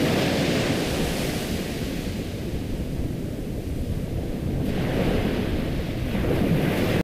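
Ocean waves washing on a shore: a steady rush of surf that eases off in the middle and swells again about five seconds in.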